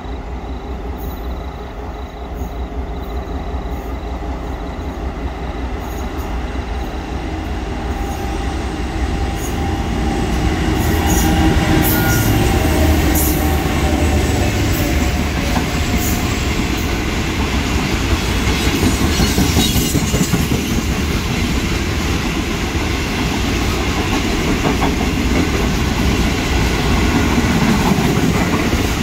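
Two Pacific National 81 class diesel-electric locomotives passing with a train of empty wheat wagons. Their diesel engine rumble builds to its loudest about a dozen seconds in, then gives way to the steady clatter of wagon wheels clicking over the rail joints.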